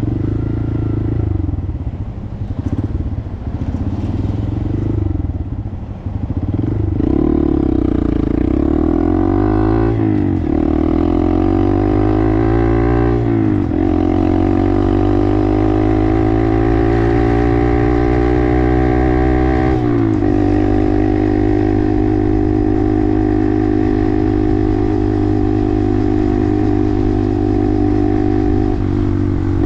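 Small 125cc single-cylinder Honda motorcycle engine ridden at low speed for the first few seconds, then accelerating with rising pitch and upshifting twice, about ten and thirteen seconds in, before cruising steadily with a brief dip near twenty seconds.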